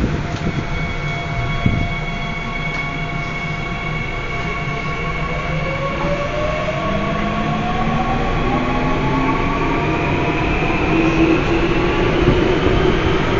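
Seoul Subway Line 9 electric train running over a steady low rumble. From about five seconds in, its motors give a whine that rises steadily in pitch as the train picks up speed.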